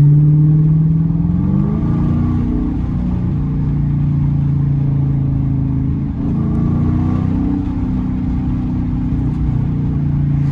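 Dodge Challenger R/T's straight-piped 5.7-litre Hemi V8 running at a steady cruise. Its revs climb about two seconds in and settle again, then dip and rise once more about six seconds in.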